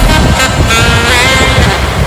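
Heavy road vehicles running, a loud low rumble of truck engines and traffic, with music still playing underneath.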